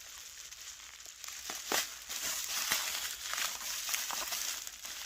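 Packaging being handled, crinkling and crackling in irregular bursts, louder from about a second and a half in.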